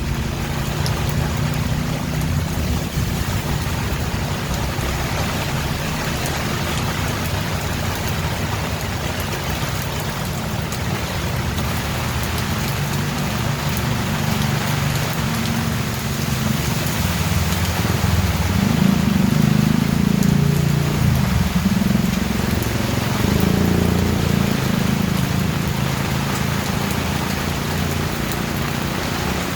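Steady heavy rain falling, with a low rumble of thunder beneath it that swells about two-thirds of the way through and then fades.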